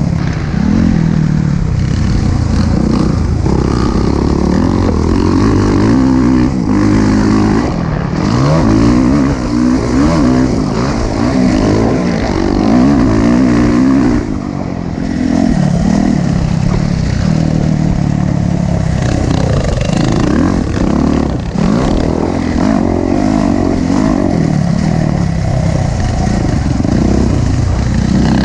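Motocross dirt bike engine being ridden hard, its pitch rising and falling with the throttle, with brief throttle-offs about halfway and two-thirds of the way through.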